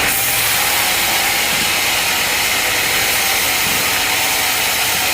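Sawmill machinery running with a steady, loud, hissing noise that does not change.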